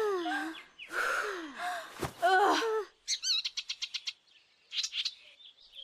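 Cartoon birdsong: several swooping, falling calls, then a fast high trill about three seconds in and a short chirp near the end.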